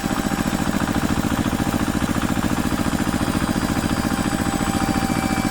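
An engine idling steadily with a fast, even pulsing beat.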